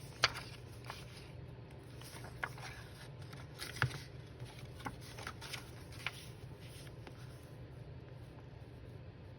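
Scattered light clicks and taps from hands handling paper and small crafting tools, thinning out after about six seconds, over a faint steady low hum.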